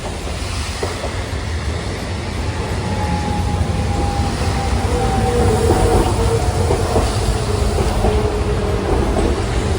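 Hiroshima Electric Railway streetcar approaching, a low rumble growing steadily louder. From about two or three seconds in, a thin motor whine sounds and falls slowly in pitch.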